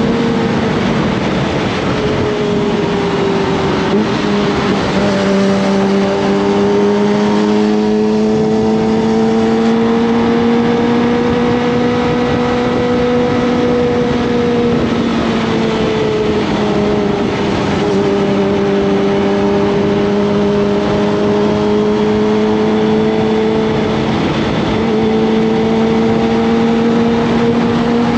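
Kawasaki ZX25R's 250 cc inline-four engine running at steady revs under way, its pitch drifting slowly up and down with small throttle changes, over a constant rushing noise.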